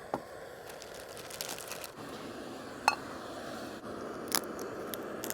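Camping gas stove burning steadily with an even hiss under a kettle being brought to the boil, with four sharp clicks spread through it.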